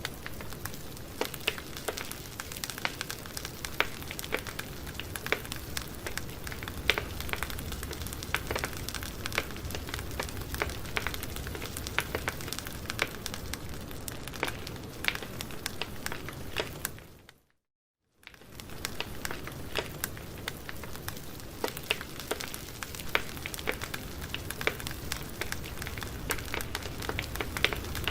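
Campfire burning: wood crackling, with frequent sharp pops over a steady hiss. About seventeen seconds in the sound fades out to a second of silence and then fades back in.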